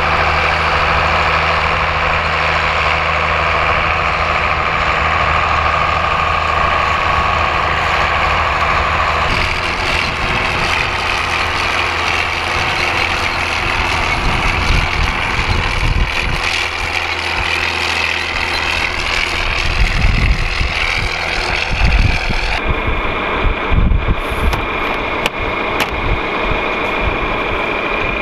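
John Deere 4450 tractor's six-cylinder diesel engine running steadily under planting work, with a whine on top. The sound shifts abruptly twice, and irregular low thumps come in over the second half.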